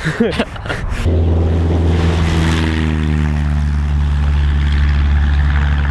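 An engine comes in suddenly about a second in and runs steadily with a low hum, its pitch easing slightly down over the next couple of seconds before holding even.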